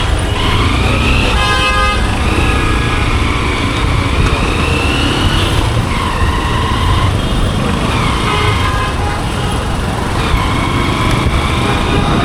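Motorcycle riding on the road: the engine's pitch rises and falls over a heavy low rumble of wind and road noise, and a vehicle horn honks about a second and a half in.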